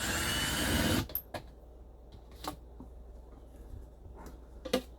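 A cordless drill/driver runs for about a second, backing out a dash vent screw, followed by a few light clicks and knocks as the screws and vent are handled.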